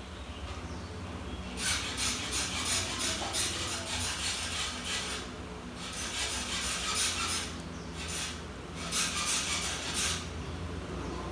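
Runs of rapid scraping strokes on laptop parts during a keyboard replacement, in four spells with short pauses between, over a low steady hum.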